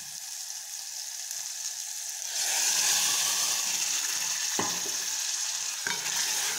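A tadka of onion, tomato and spices sizzling in hot oil in a metal pot. About two seconds in, cooked urad dal is poured in and the sizzle jumps louder, then a spoon knocks against the pot twice as the dal is stirred.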